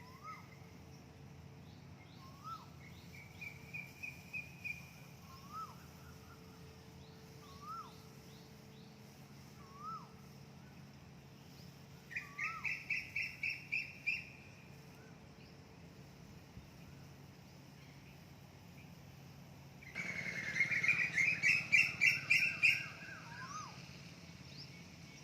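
Birds singing in the morning: one bird repeats a short up-and-down whistled note every two to three seconds, while another gives quick rattling trills, the loudest burst about twenty seconds in. A steady low hum runs underneath.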